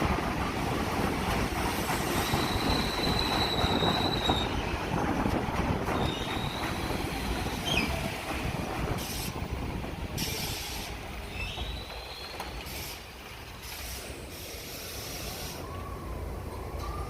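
New York City subway train running through the station, its wheels squealing in high, drawn-out tones several times, the rumble fading as it moves off. Near the end a siren starts to rise.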